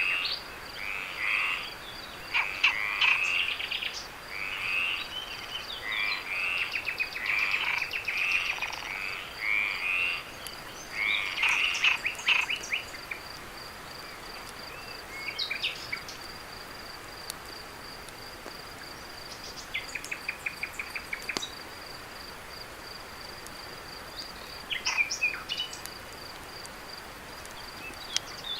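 Frogs croaking in a chorus of repeated rasping calls for about the first twelve seconds, then only now and then, over a steady high-pitched insect trill.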